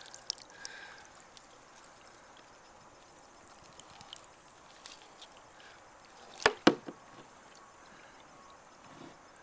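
Water trickling and dripping beside a kayak, with faint scattered clicks and two sharp knocks close together a little past halfway through.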